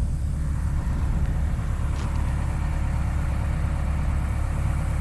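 Kobelco SK210 excavator's engine idling steadily, a low even drone, with a faint tick about two seconds in.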